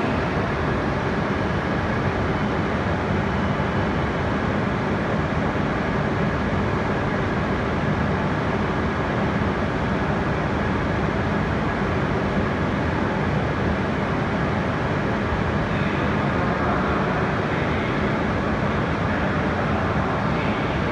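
Steady hum and rumble of a coupled E5/E6 Shinkansen train standing at an underground platform, its onboard equipment running, with no change throughout.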